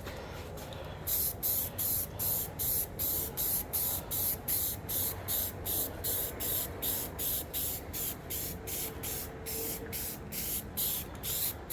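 Aerosol spray paint can sprayed in a long series of short, even bursts, about two to three a second, touching up the paint on the body.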